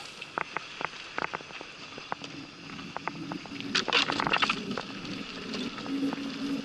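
Mountain bike on a downhill trail: irregular clicks and rattles of the bike, with crackling from the tyres over rough ground and a denser clatter about four seconds in.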